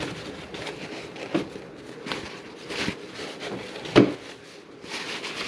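Bench handling noises: light knocks and rubbing as parts are handled, with a sharper knock about four seconds in.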